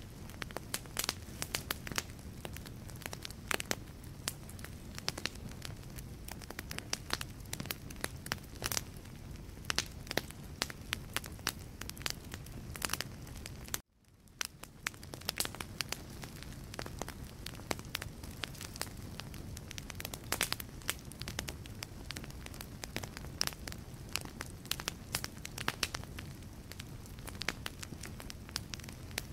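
Wood fire burning in a fireplace: logs crackling and popping in sharp, irregular snaps over a low steady rumble of flame. About halfway through the sound drops out briefly, then fades back in.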